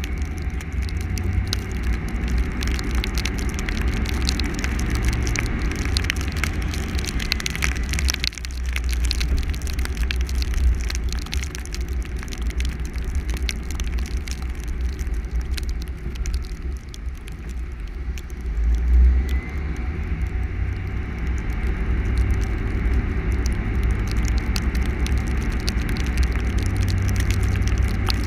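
Car driving on a snowy, icy road: a steady low rumble with a scatter of faint crackling ticks over it, and one short swell about two-thirds of the way through.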